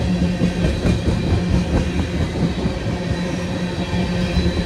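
Freight train tank cars rolling past at close range: a steady rumble of steel wheels on the rails, with sharp clicks as the wheels pass over rail joints in the first couple of seconds.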